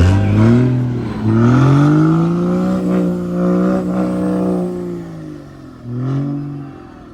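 A truck engine revving hard: a quick rev at the start, then a climb about a second in that is held high for several seconds before dropping back, and a short blip near the end.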